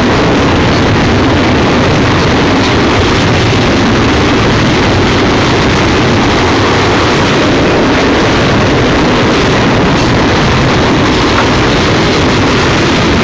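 Double-stack container train passing close by: steel wheels of the well cars rolling over the rails in a loud, steady, unbroken noise.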